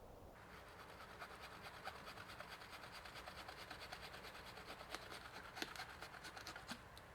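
Hand saw cutting through wood in quick rasping strokes. It starts just after the beginning and stops shortly before the end.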